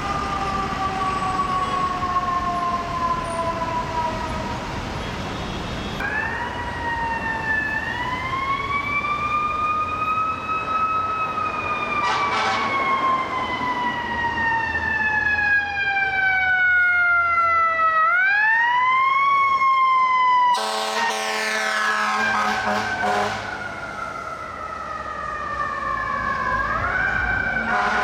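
Fire truck siren wailing: the pitch rises quickly, then falls slowly over several seconds, again and again. About twenty seconds in, a loud air horn blasts for about three seconds. Traffic and engine noise run underneath.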